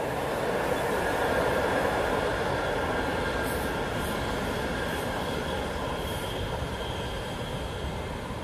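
Swiss passenger train, a locomotive hauling coaches, running along the lakeside line past a station platform, a steady rumble of wheels on rail with a faint high wheel squeal. It is loudest in the first couple of seconds and slowly fades as the train draws away.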